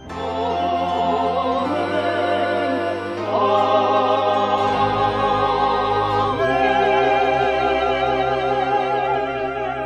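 Church choir singing a sacred hymn in slow, sustained chords with vibrato over steady low accompaniment. The harmony shifts three times and the final chord is held.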